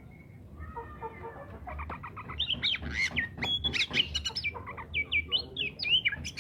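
Oriental magpie-robin in full song: a fast, varied run of sliding whistles and chirps that starts about two seconds in and grows louder, over a steady low hum.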